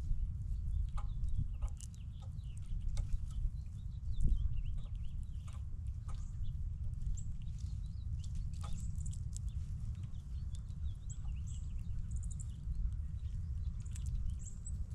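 Animals feeding at an outdoor peanut table: scattered taps and clicks with short, high bird chirps, most of them in the second half, over a steady low rumble.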